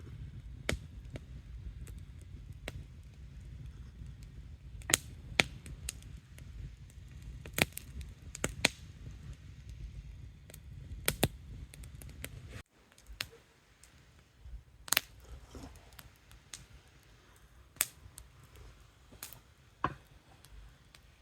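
Campfire crackling: scattered sharp pops and snaps over a low rumble. The rumble drops out suddenly about two-thirds of the way through, leaving fainter, sparser pops.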